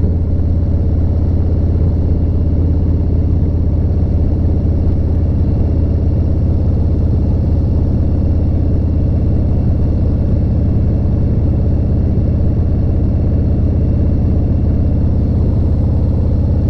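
Harley-Davidson motorcycle's V-twin engine running at a steady cruise, a constant low hum with no change in speed.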